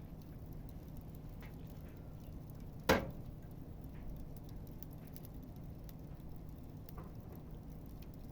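Campfire burning, with faint scattered crackles and one sharp pop about three seconds in, over a low steady hum.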